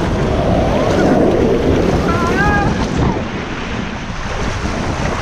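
Rushing water and wind buffeting the microphone during a ride down a water slide. A brief high voice cries out about two seconds in.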